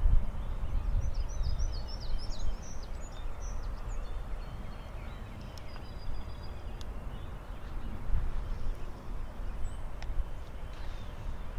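Wind rumbling and buffeting the microphone, with a bird giving a quick run of high chirps between about half a second and three seconds in, and a few thin whistled notes near the middle.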